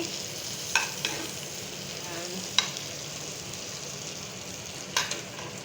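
Potato chips frying in hot oil: a steady sizzle, with a few sharp clicks scattered through it.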